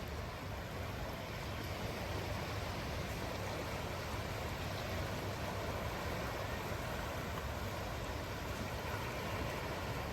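Steady outdoor ambience: an even rushing noise with a low rumble underneath and no separate events.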